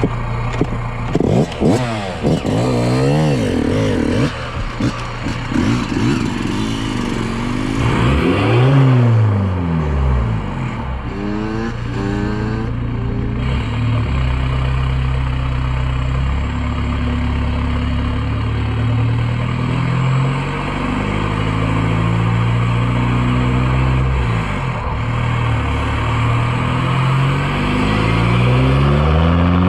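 Audi A4 2.0 TDI eight-valve four-cylinder diesel through a straight-through exhaust with no silencers, revved sharply up and down several times, then running steadier with the pitch climbing slowly near the end.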